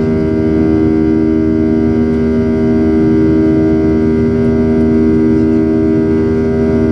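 Boeing 737-800's CFM56 jet engines running steadily, heard from inside the passenger cabin as a loud, even drone with a strong hum over a deep rumble.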